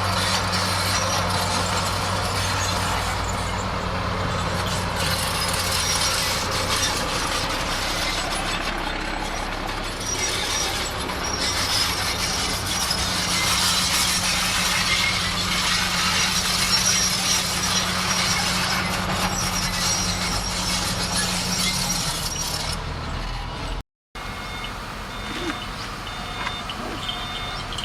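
Bulldozer's diesel engine running under load with the clatter and scraping of its tracks and blade working dirt. After a short break near the end, a reversing alarm beeps at a steady rhythm over the engine.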